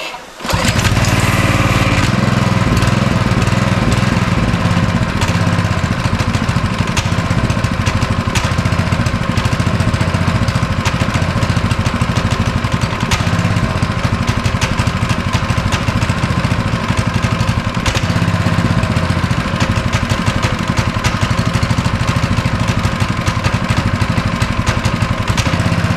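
Honda single-cylinder small engine on a Simpson pressure washer catching on a pull-start about half a second in, then running steadily. The engine is on a test run after its carburetor was cleaned to cure a stalling idle.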